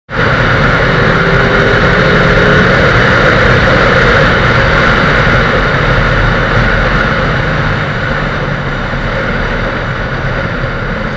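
Motorcycle engine running steadily, starting abruptly and easing off slightly toward the end.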